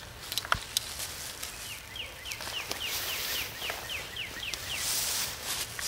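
A bird singing a run of about a dozen short, downward-slurred notes, about four a second, lasting about three seconds. A few sharp clicks come in the first second.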